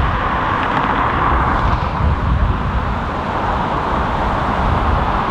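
ATR 72-600 twin turboprop running at power during a go-around, a steady engine and propeller noise, with gusty wind rumbling on the microphone.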